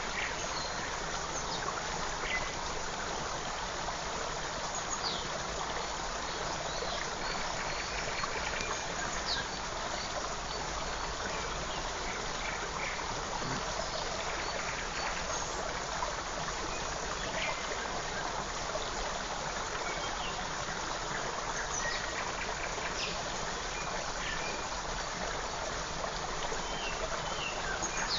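Forest creek running steadily, with short bird chirps and calls scattered over the rush of water.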